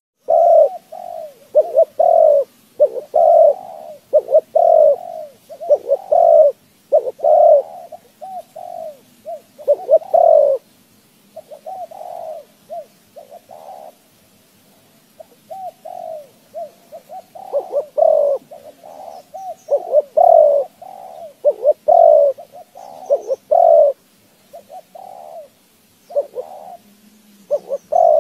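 A bird cooing: a long series of low, short notes, about two a second, in runs broken by brief pauses.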